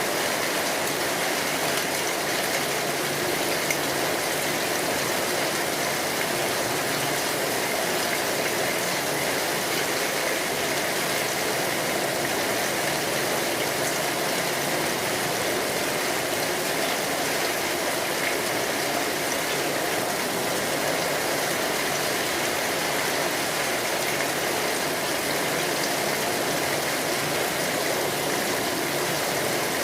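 Steady rain falling, a constant even hiss of many drops without a break.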